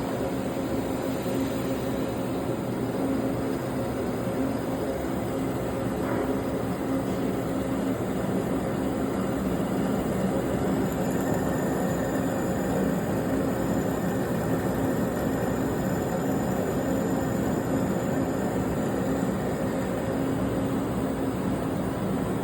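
Elevator traction sheave being machined in place: a steady mechanical hum with a constant low tone as the groove is cut. A thin higher whine joins about halfway through.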